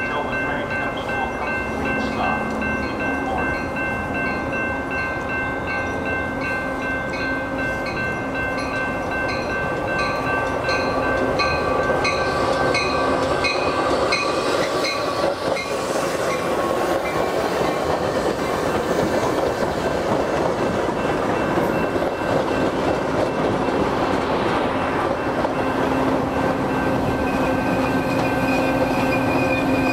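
Metra bi-level commuter train, cab car leading and an F40PH diesel locomotive pushing at the rear, rolling into the station, growing louder from about halfway through, with wheels clattering on the rails. A rapid, regular dinging runs over it.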